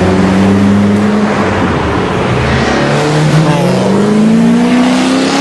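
Race car engines running, with one engine note climbing steadily from about halfway through as a car accelerates.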